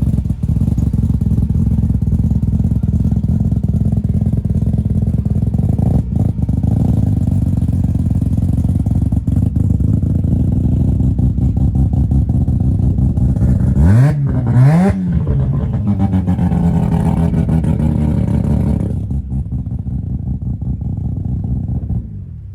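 Car engine idling, then revved twice in quick succession about fourteen seconds in, each rev rising and falling in pitch before it settles back to idle; the sound fades away near the end.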